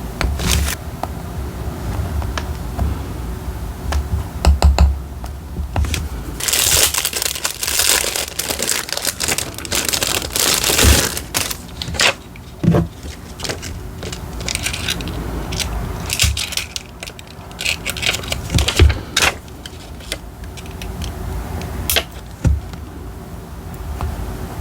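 Paper being handled for journal decorating: crinkling and tearing, densest from about six to eleven seconds in, with scattered sharp clicks and taps of tools and materials on the desk.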